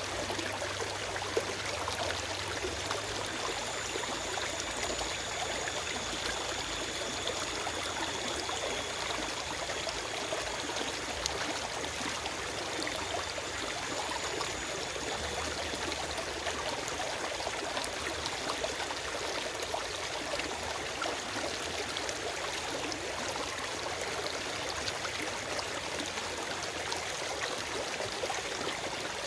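Forest stream running steadily: a continuous, even rush of flowing water.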